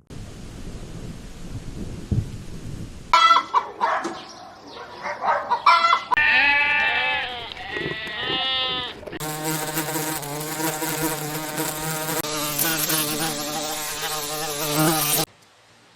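A run of edited-together farm-animal sounds: a few seconds of steady noisy haze, then short calls and clicks, then calls rising and falling in pitch, then one long steady call that cuts off suddenly near the end.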